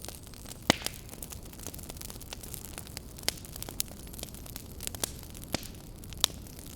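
Fire in a fireplace crackling: scattered sharp pops and ticks over a low, steady rustle of burning, with louder pops just under a second in and near the end.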